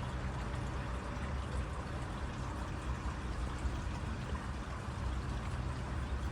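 Steady rush of running water, like a small stream, with a constant low rumble underneath.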